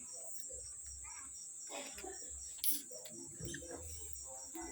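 Crickets chirping: a steady high-pitched trill with an even pulse, under faint distant voices.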